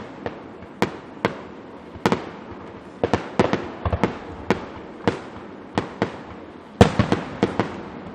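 Aerial fireworks display: a rapid, irregular string of sharp bangs, roughly two a second, with the loudest burst near the end.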